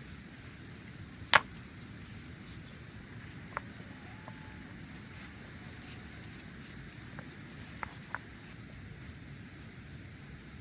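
A few sharp knocks: one loud about a second and a half in, then three fainter ones, two of them close together near the end. Under them runs a steady background hiss with a faint high steady tone.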